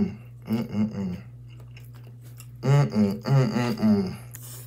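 A person chewing a mouthful of food, with small wet clicks of the mouth and fork, and twice a wordless closed-mouth humming 'mm' of enjoyment while eating. A steady low hum runs underneath.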